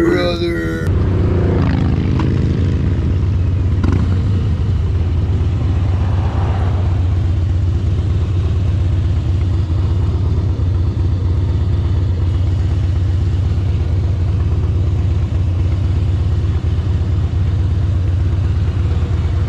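Harley-Davidson motorcycle engine running steadily with a deep, even low note that holds level throughout.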